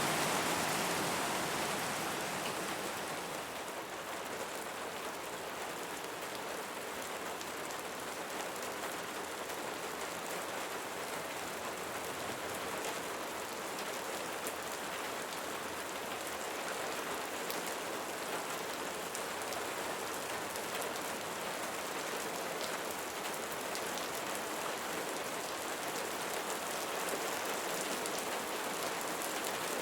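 Steady rain falling, an even hiss with faint ticks of single drops scattered through it. It eases slightly in the first few seconds and then holds steady.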